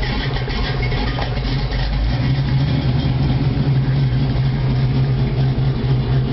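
Chevy 350 V8 with a ProComp thumper cam and straight-pipe exhaust idling steadily, freshly started while hot.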